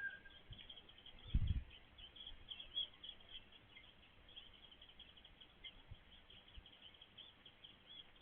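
Small birds chirping faintly in a quick, continuous run of short high chirps, with one low thump about a second and a half in.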